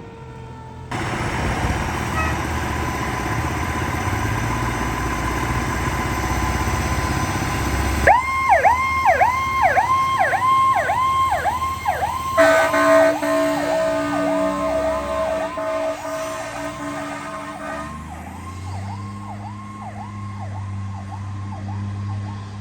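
Fire truck departing on an emergency call: heavy engine noise rises about a second in, then an electronic siren starts a fast yelp at about 8 seconds. A loud steady horn blast sounds over the siren for several seconds, then the yelping siren carries on more faintly as the truck pulls away.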